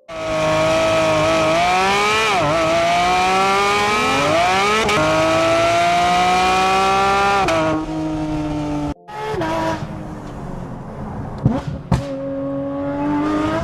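Porsche 911 GT3 RS's naturally aspirated flat-six at high revs, pitch climbing under hard acceleration, with quick dips and rises around two and four seconds in as it changes gear. Near eight seconds the revs fall away, the sound cuts out briefly near nine seconds, and the engine then runs lower and quieter with a few sharp, quick rev blips.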